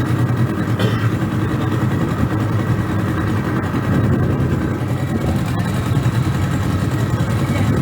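An engine running steadily with a deep, even drone.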